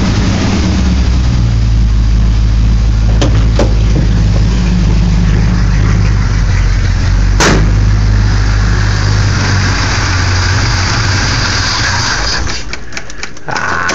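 1969 Chevy C10 pickup engine idling steadily, with a few sharp clicks along the way, then faltering and fading near the end. The idle is set too low, and the engine is running on old gas through a carburetor that needs rebuilding.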